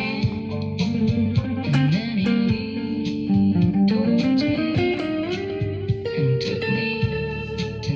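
Electric guitar playing an alt-country instrumental passage, with notes sliding upward in pitch around the middle.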